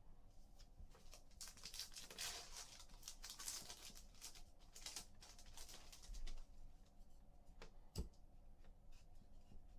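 Faint rustling, sliding and ticking of trading cards and pack wrappers being handled, busiest in the first six seconds, with one sharp knock about eight seconds in.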